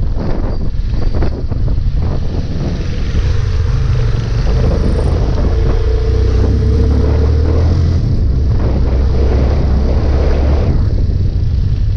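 Yamaha Fazer 250's single-cylinder four-stroke engine running under way on a ride, with wind on the microphone; the engine note settles into a steady pull about four seconds in and eases off near the end.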